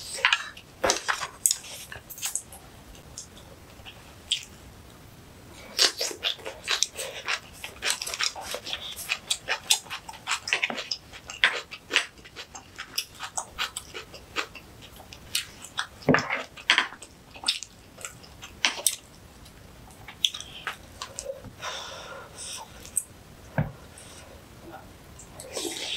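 Close-miked eating sounds: chewing with many short clicks and crackles, densest in the first half. A wooden spoon scrapes rice against a wooden bowl.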